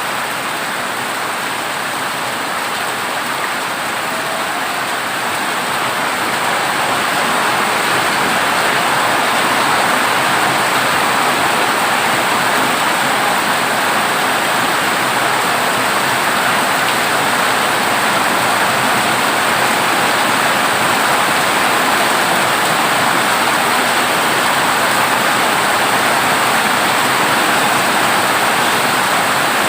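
Heavy rain falling steadily on a corrugated zinc roof, a dense, even hiss that grows a little louder about six seconds in.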